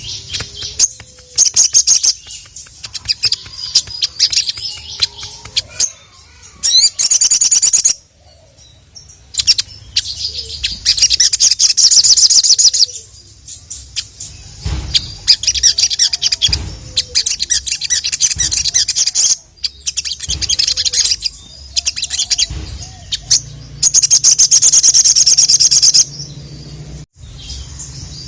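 A sogon (sogok ontong) sunbird singing loud, very fast, high-pitched trilling phrases, each a second or two long, with short pauses between them.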